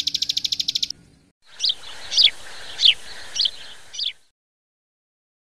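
Klik-klik (ciblek sawah) bird song: a fast, even run of high clicking notes that stops about a second in. After a short gap come five sharp, falling chirps over a hissy background, then the sound cuts off.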